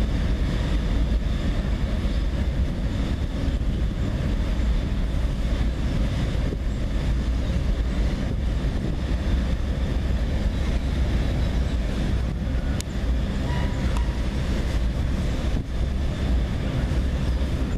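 Freight cars rolling across a steel girder railroad bridge: a steady low rumble of wheels on rail that runs without a break.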